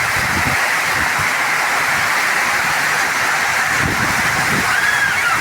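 Heavy monsoon rain pouring steadily, with gusts of wind rumbling on the microphone.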